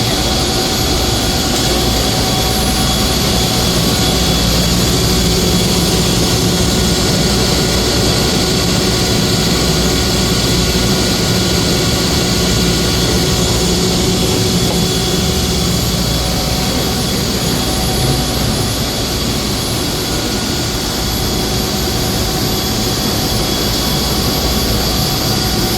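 Industrial chiller equipment running: a loud, steady mechanical drone and rush with several constant hum tones, unchanging throughout.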